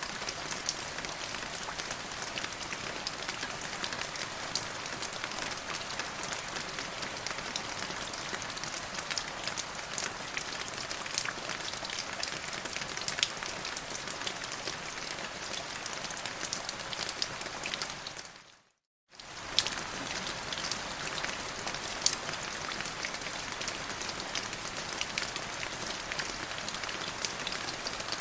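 Steady rain in a forest, a dense even hiss dotted with individual drop hits. About two-thirds of the way in it fades out to silence for a moment, then comes back at once.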